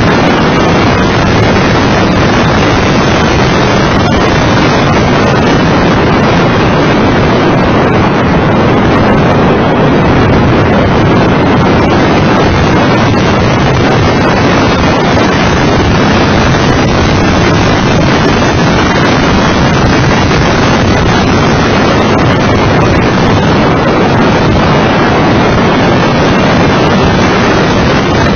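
Mitsubishi FTO GPX's 2.0-litre MIVEC V6 running at track speed, nearly drowned by loud, steady wind rushing over the bonnet-mounted camera's microphone.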